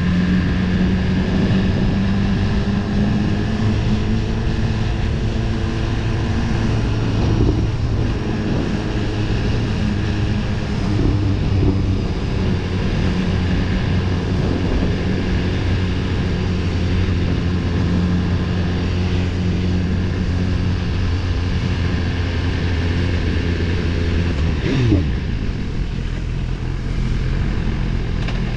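BMW S1000RR inline-four engine running at a steady cruise, heard from the rider's seat with wind rush over it. About 25 seconds in the revs fall quickly with a brief bump, and the engine runs on at a lower note.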